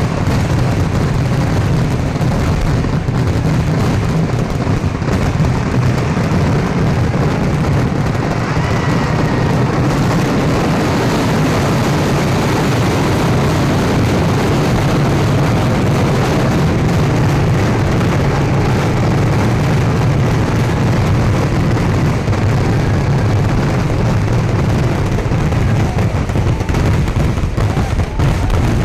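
Fireworks barrage: explosions in rapid, unbroken succession, running together into a steady din with heavy low booms.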